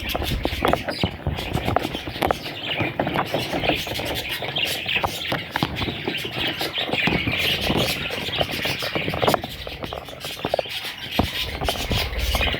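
Parrots chattering and chirping continuously, with many short overlapping calls and clicks.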